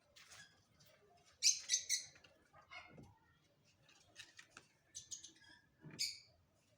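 Birds chirping: scattered short, high chirps, with the loudest run about a second and a half in and another near the end.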